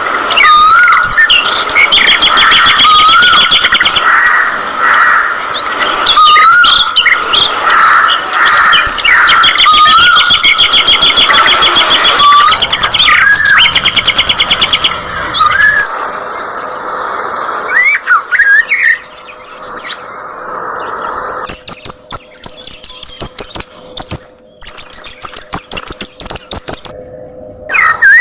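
Budgerigars chirping and warbling in dense, overlapping chatter. After about halfway it thins out to sparser rapid clicks and a few whistled glides.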